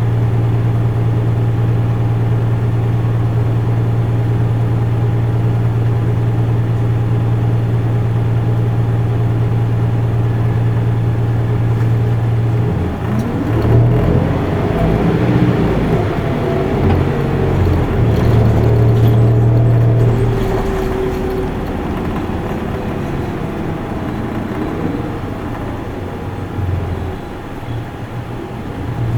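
Isuzu Erga Mio bus's four-cylinder turbo diesel heard from inside the cabin: a steady low hum, then about halfway through the engine pulls away, its pitch rising and falling through gear changes, before easing off near the end.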